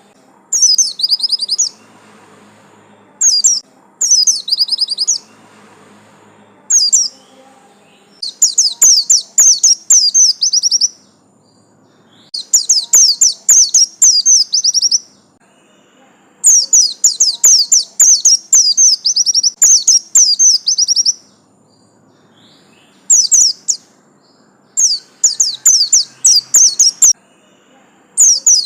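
White-eye (pleci, Zosterops) singing in bursts of very rapid, high chattering trills, each phrase lasting one to three seconds, with short pauses between them.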